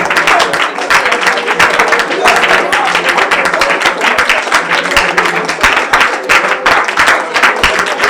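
Congregation praying aloud all at once, many overlapping voices with clapping, over a steady held musical note.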